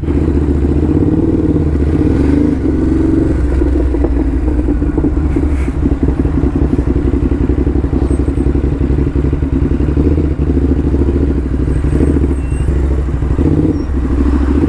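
Ducati Hypermotard SP's L-twin engine running steadily at low revs, its exhaust giving a deep, evenly pulsing note.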